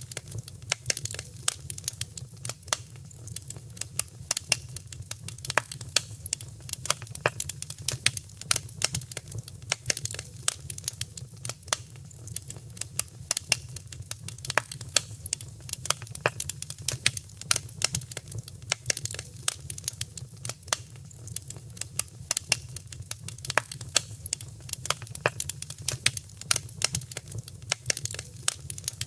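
Fireplace fire crackling, with many irregular sharp pops and snaps over a low, steady rumble of the flames.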